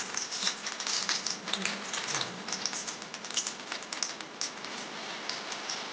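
Light, irregular clicking and tapping with short soft scrapes, many small taps a second.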